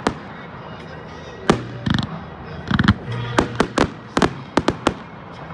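Fireworks display: aerial shells bursting in a series of sharp bangs, about a dozen, with a quick run of reports in the second half.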